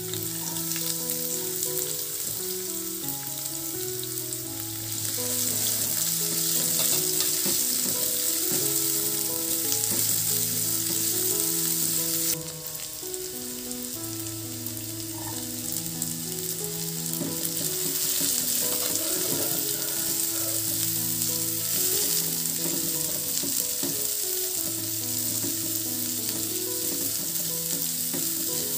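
Sliced garlic, shallots and onion sizzling in hot oil in a wok and being stirred with a spatula. The sizzle gets louder about five seconds in and drops suddenly about twelve seconds in. Background music with a slow melody plays throughout.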